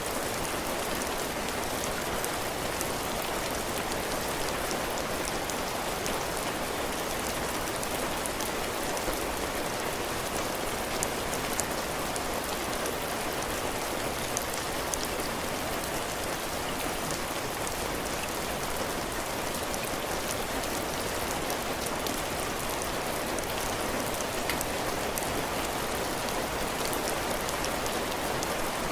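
Heavy rain falling steadily, the drops pattering on a porch roof and the ground.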